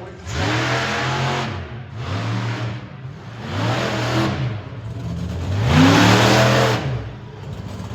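Monster truck engine revving hard in four surges, its pitch climbing and falling with each burst of throttle, the last the loudest.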